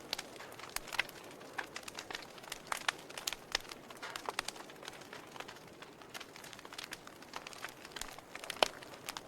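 Wood fire in a fireplace crackling: irregular sharp pops and snaps over a soft hiss, with the loudest snap near the end.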